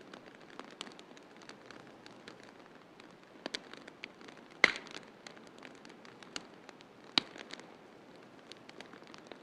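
Wood fire crackling in a fireplace: a run of small ticks over a soft steady hiss, with two sharp pops, about four and a half and seven seconds in, the first the loudest.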